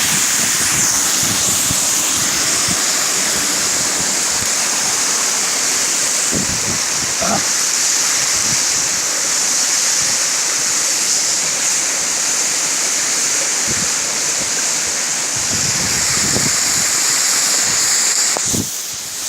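Steady rushing hiss of a tall mountain waterfall, roughly 100 m high, with water pouring continuously. Low gusts of wind buffet the microphone now and then.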